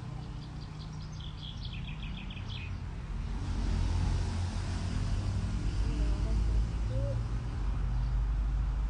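A bird's quick run of short, high chirps during the first two and a half seconds, over a low, steady outdoor rumble that grows louder about three and a half seconds in.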